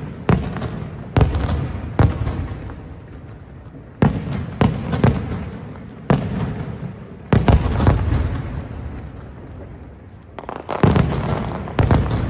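Aerial firework shells bursting in a rapid, irregular series of about a dozen loud bangs, some in quick clusters, each trailing off in a rolling rumble.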